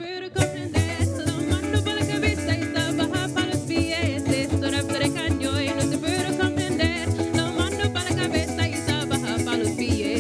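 Parang band playing live: maracas shaking a steady rhythm over plucked and strummed string instruments.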